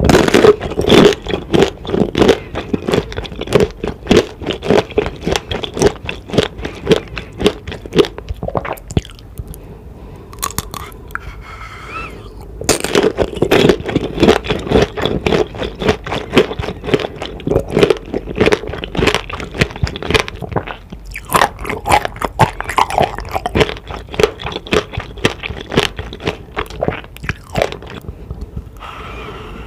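Close-up biting and chewing of tanghulu, candied fruit with a hard sugar shell: rapid crackling crunches as the glassy coating breaks between the teeth. The crunching comes in three bouts, with short lulls about nine seconds in and again about twenty seconds in.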